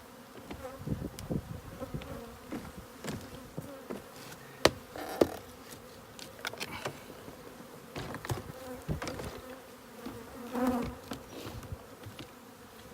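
A mass of honeybees from an opened colony buzzing steadily, with scattered knocks and scrapes from work on the hive. Two sharp knocks about five seconds in are the loudest sounds.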